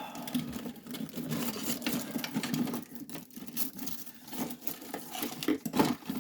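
Small hard objects rattling and clattering continuously, with many quick clicks, as someone rummages through a drawer or container looking for nail files.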